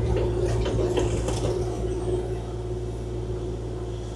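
Kubota KX040-4 mini excavator's diesel engine running steadily with a constant whine, with a few sharp knocks and scrapes in the first second and a half.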